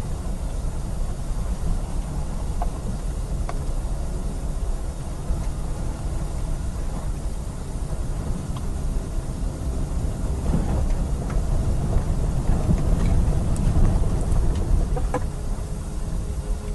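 A steady deep rumble of storm noise, with a few faint clicks scattered through it.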